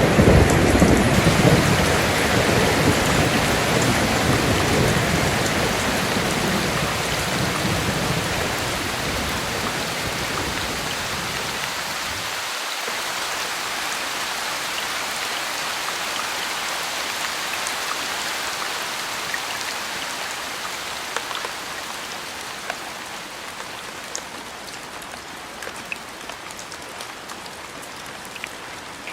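Steady rain with a low rolling rumble of thunder at the start that dies away about halfway through. The rain goes on alone, slowly getting quieter, with occasional single drops clicking near the end.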